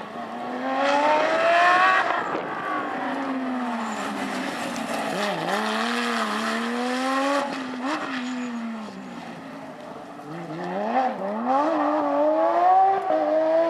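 Porsche rally car's flat-six engine at full throttle, rising in pitch through the gears with sharp dips at shifts and lifts. It drops away in the middle, then climbs again and is loudest near the end.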